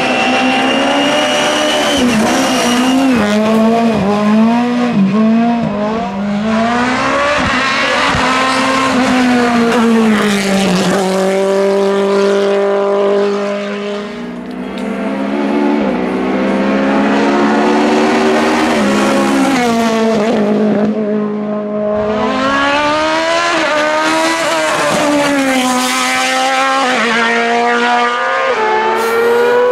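Race car engine at high revs, its pitch climbing again and again as it pulls through the gears, then dropping as the driver lifts off and shifts down, most clearly about fourteen seconds in and again around twenty seconds, before it pulls hard once more.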